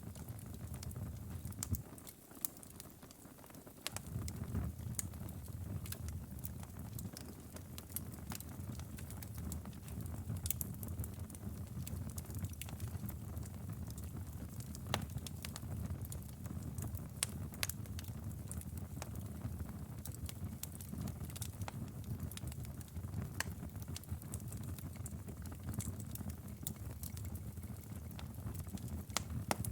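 Outdoor fire burning: a steady low rumble of flames with frequent sharp crackles and pops. The rumble drops away briefly about two seconds in, then returns.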